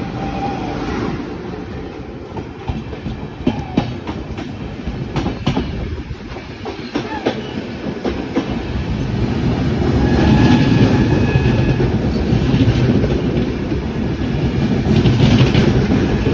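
A train running by: rumbling with the clickety-clack of wheels over rail joints, growing louder about ten seconds in, with a faint thin high tone from the wheels at times.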